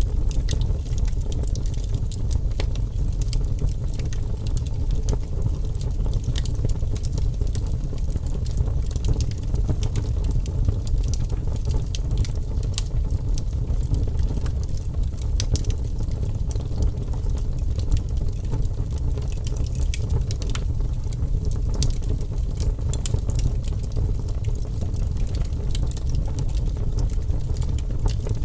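Wood fire crackling in a fireplace: frequent small sharp snaps and pops over a steady low rumble of the flames.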